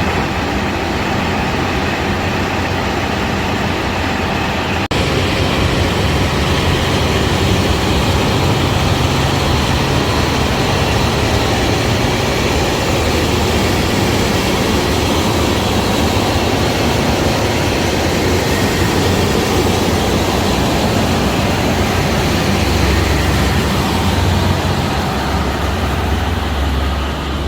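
KiHa 183 diesel railcar train running: a steady engine drone under rail and running noise. The sound steps up suddenly about five seconds in.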